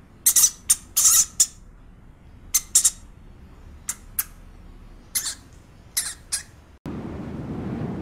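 A small animal's short high-pitched calls, about a dozen in irregular clusters, then an abrupt switch near the end to a steady rushing noise.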